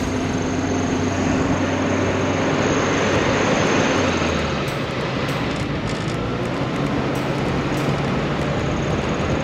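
Four-wheel-drive vehicle driving along a sand beach: steady engine with tyre and wind noise, the engine note shifting about four and a half seconds in. The sound cuts off suddenly at the end.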